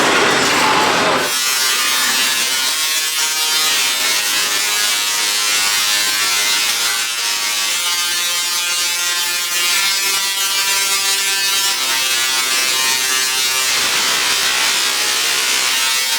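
Voltron Nevera multi-launch roller coaster during the ride: a loud, steady, high-pitched electric whine with many overtones over rushing noise, setting in abruptly about a second in.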